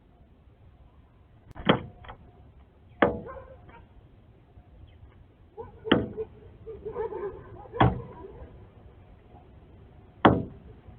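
Northern cardinal striking the glass of a window, five sharp knocks at uneven intervals a second or more apart, with fainter taps and a brief scuffle against the window in between.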